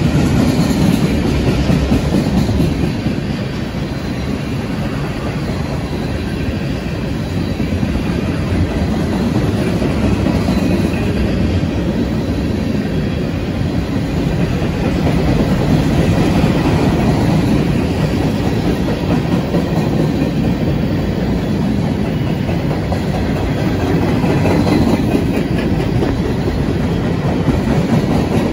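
CSX freight train of tank cars and covered hoppers rolling past close by: a steady rumble of steel wheels on the rails, swelling and easing slightly as the cars go by.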